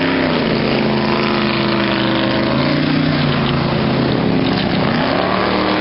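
Motorboat engine running steadily, its pitch drifting down and back up over the few seconds.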